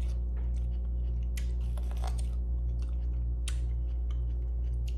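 Boiled corn on the cob being bitten and chewed close to the microphone, with short crunching clicks at irregular moments. A steady low hum runs underneath.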